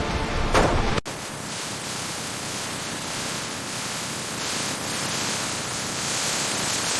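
A low rumble cuts off abruptly about a second in, giving way to a steady, even hiss of falling rain.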